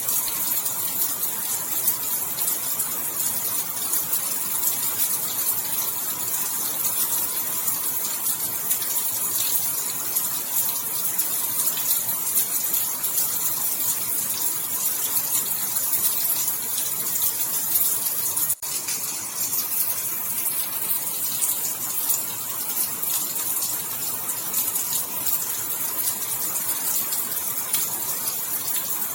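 Steady rain falling, a dense even hiss, with a brief dip in level about two-thirds of the way through.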